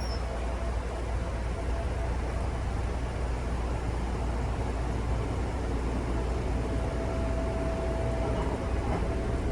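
Steady running noise of a local electric train heard from inside the car: wheels rolling on the rails with a deep rumble, and a faint steady whine that grows a little stronger in the second half.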